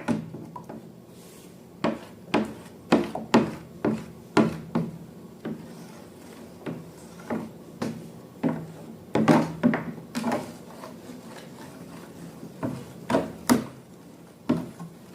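Hard objects being handled: a series of sharp taps and short scrapes at uneven intervals, a little busier about nine to ten seconds in, over a faint steady low hum.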